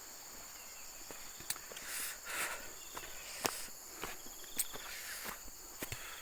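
Footsteps walking, irregular knocks about once a second, over a steady high-pitched chorus of insects.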